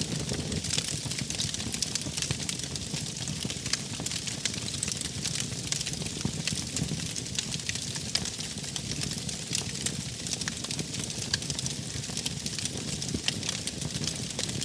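Wood fire crackling: a steady low rumble of flames with many small, irregular pops and snaps.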